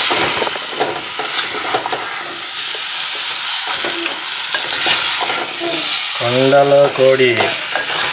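Chicken pieces sizzling as they fry in a clay pot while being stirred, with irregular clicks and scrapes from the stirring. A voice speaks briefly near the end.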